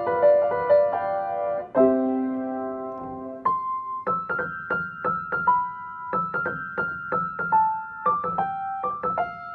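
Piano being played by hand: a short run of notes, a held chord about two seconds in, then a high note struck over and over, about two or three times a second, with a changing lower note beneath it.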